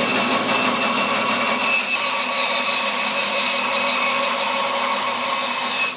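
Bandsaw running steadily, cutting a length off a branch log.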